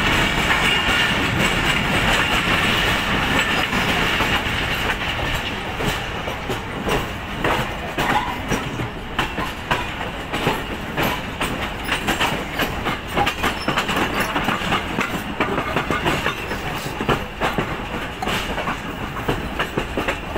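Passenger train coach running on the rails: a steady rumble and rush at first, then from about six seconds in irregular sharp clacks as the wheels cross rail joints and the points of a station.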